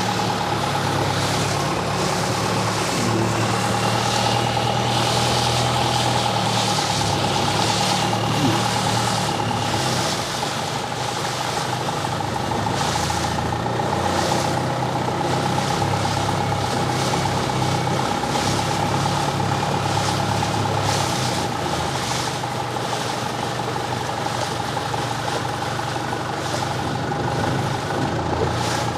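An engine running steadily at idle: a constant low drone with a steady higher hum over it.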